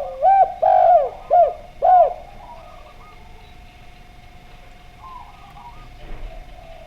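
Doves cooing: a loud run of about five arching coos in the first two seconds, then fainter, higher warbling dove calls about five seconds in. A faint steady hum runs underneath.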